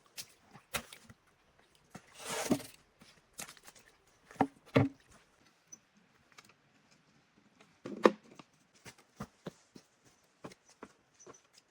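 Scattered light knocks and clicks with a short rustle about two seconds in, and a few sharper knocks near the middle and about two-thirds of the way through.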